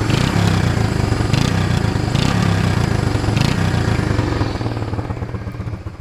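ATV engine running through a homemade exhaust pipe, revved up, then easing back to a lower, steady run about two-thirds of the way through.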